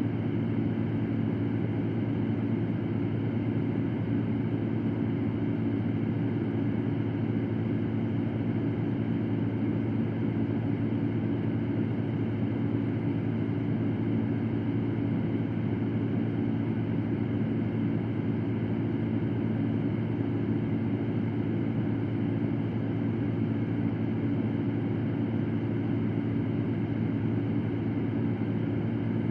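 Electric fan running steadily: a constant low hum with an even whoosh of moving air, unchanging throughout.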